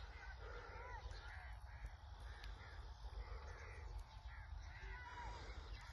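Ringneck parrot making a string of short chirping calls, roughly two a second, over a low steady rumble.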